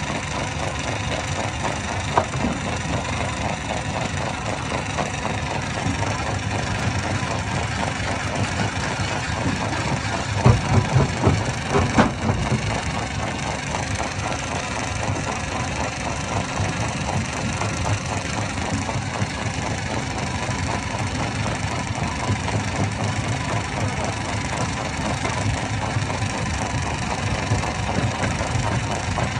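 Hammer-type stone crusher running steadily, a constant heavy mechanical rumble, with a few louder knocks about two seconds in and a cluster of them around ten to twelve seconds in.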